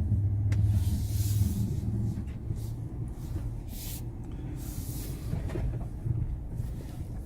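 A 2017 Ram 2500 Power Wagon's 6.4-litre Hemi V8 pulling at low speed in four-wheel-drive low, a steady low rumble heard from inside the cab, with a few short bursts of higher rattling noise from the truck working over the rough trail.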